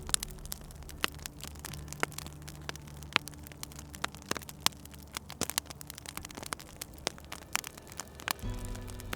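Wood fire crackling with irregular sharp pops and snaps, over a low steady hum that shifts in pitch twice.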